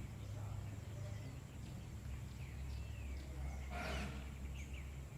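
Faint outdoor ambience: small birds chirping with short, quick calls over a steady low rumble, and one brief hissing, rustling burst about four seconds in.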